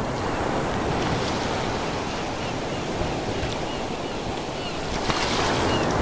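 Ocean waves washing onto the shore in a steady rush that swells again near the end. Faint, short, high chirps come in over it from about halfway through.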